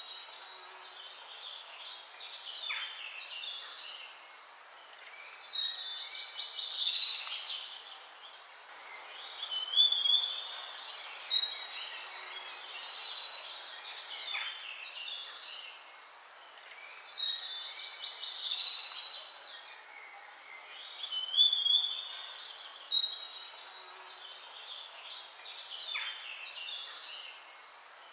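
Birdsong: several birds singing short, bright chirping phrases over a steady background chorus. The same run of phrases comes back about every eleven to twelve seconds.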